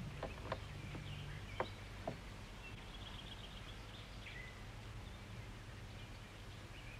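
Small birds chirping and trilling in woodland, over a faint low hum. Four sharp knocks come in the first two seconds.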